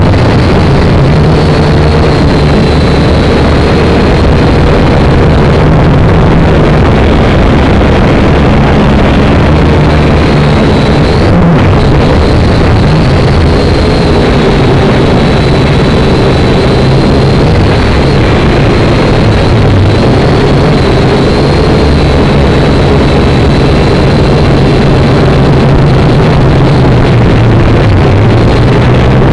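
Syma X5C quadcopter's small motors and propellers whining steadily in flight, the pitch wavering slightly as the throttle shifts.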